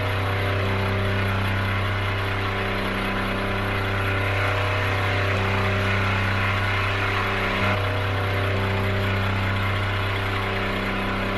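Scania N230 LE bus engine running steadily at an even speed, a low hum with a higher tone that drops out and comes back a few times.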